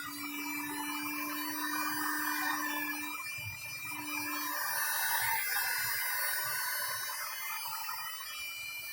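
Heat gun blowing hot air onto an acrylic sheet to soften it for bending: a steady rushing whoosh with a motor hum that is stronger for the first three seconds and again briefly about four seconds in.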